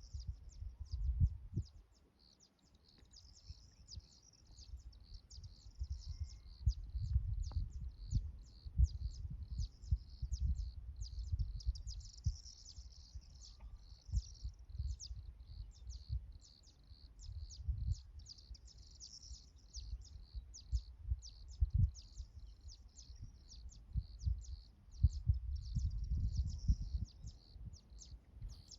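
Birds chirping continuously, a dense run of quick high-pitched chirps. Irregular low thumps and rumbles come and go underneath and make the loudest moments.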